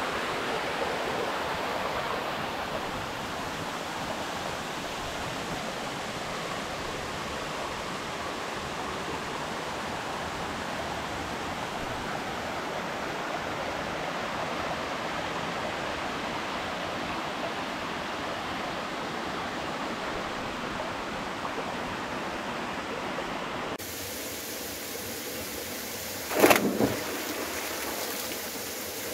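Waterfall with steady rushing water. About 24 s in, the sound cuts abruptly to a thinner hiss, and a short, sharp, loud sound comes a couple of seconds later.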